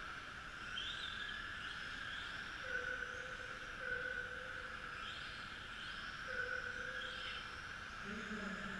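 Several electric RC model trucks racing on Tamiya TT-01E chassis. Their motors give a steady whine, with short whines rising in pitch every second or two as cars accelerate past.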